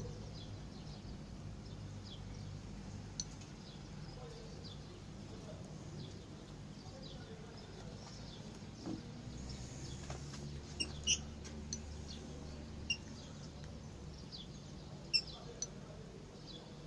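Small birds chirping in outdoor ambience: short, high chirps scattered throughout, with a cluster of sharper, louder ones in the second half, over a faint steady low rumble.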